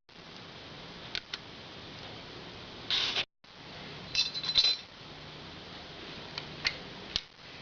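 Small metal valve parts of a cylinder head clinking and tapping as they are handled: scattered sharp clicks, with a louder cluster of clinks about four and a half seconds in.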